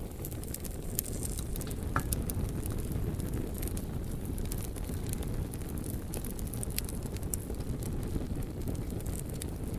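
Wood fire crackling: irregular sharp pops and snaps over a steady low rushing noise.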